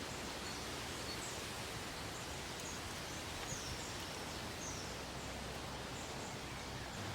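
Steady woodland ambience: an even outdoor hiss with a few faint, short, high bird chirps scattered through.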